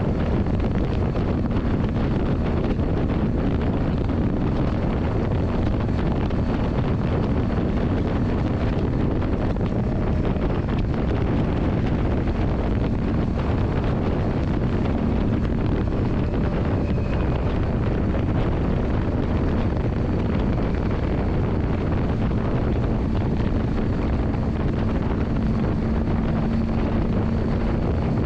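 Yamaha Drag Star 400's V-twin engine running steadily, mixed with heavy wind noise on the microphone.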